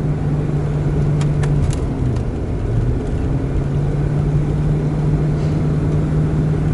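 Car driving, heard from inside the cabin: a steady low engine hum over road and tyre noise, with a few faint ticks a little over a second in.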